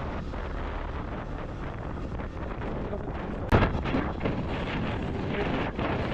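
Wind buffeting the microphone of a moving motorcycle, a steady rushing noise with gusts. About three and a half seconds in comes a single sharp knock, the loudest sound.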